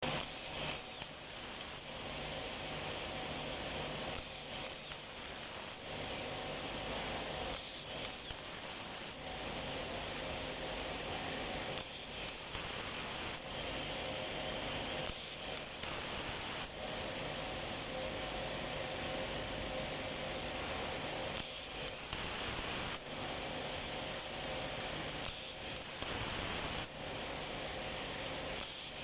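Pneumatic automatic cable tie gun working in repeated cycles: a steady hiss of compressed air, with a louder burst of air every one to two seconds as each tie is blown through the feed tube and fastened.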